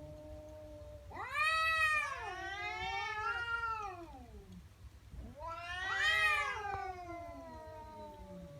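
Angry domestic cat yowling in threat, the drawn-out 'wauuu' of a cat warning off a rival. Two long wavering wails, each rising and then sinking in pitch, begin about a second in and about five seconds in, after a lower moan that trails off at the start.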